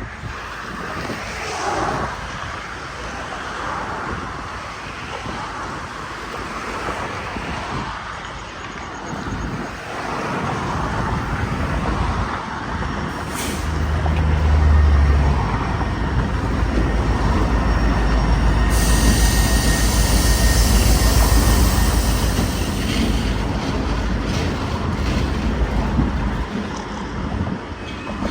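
A freight train rolling past in a rail yard switching move: a low rumble of locomotive and rail cars that swells about halfway through into a loud, evenly pulsing rumble, with a high hiss joining for a few seconds.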